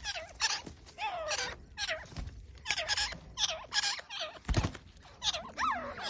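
Grey francolin calling: a rapid, continuous series of harsh repeated notes, many sliding down in pitch. A single dull thump about four and a half seconds in.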